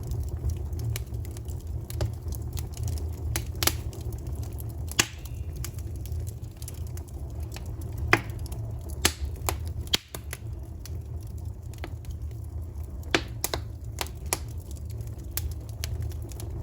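Wood fire crackling: a steady stream of small snaps and several louder pops from the burning logs, over a steady low rumble.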